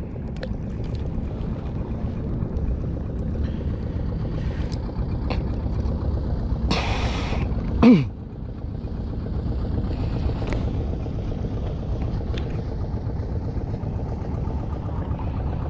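Strong wind buffeting the microphone, a steady low rumble. About seven seconds in comes a brief hiss, then a short sound falling steeply in pitch, the loudest moment.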